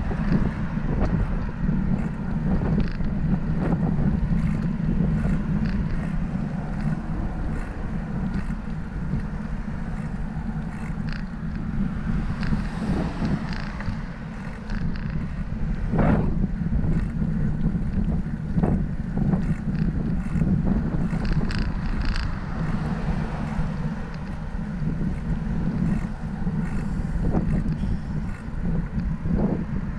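Steady wind rumble on the microphone of a camera riding along on a moving bicycle, with road and traffic noise and scattered small clicks and rattles.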